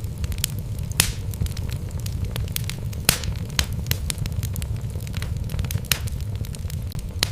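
Wood fire burning in a fireplace: logs crackling and popping at irregular intervals over a steady low rumble of the flames, with a few louder pops about a second in, about three seconds in and just before six seconds.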